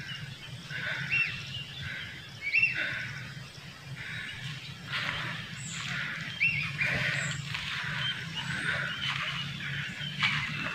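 Small birds calling in the scrub: many short chirping notes, some sliding in pitch, repeated throughout over a steady low hum.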